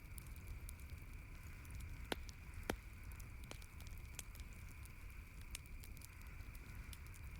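Campfire crackling, with scattered sharp pops, the two loudest a little after two seconds and just before three seconds in, over a steady low rumble and hiss.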